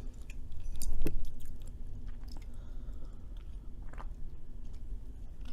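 Close-up chewing of soft Cajun fries with a bit of crisp, with scattered small mouth clicks and a louder one about a second in.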